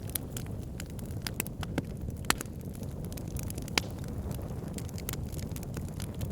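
Wood fire burning in a fireplace: a steady low rumble of flames with frequent irregular crackles and pops, two sharper snaps about two and a half and four seconds in.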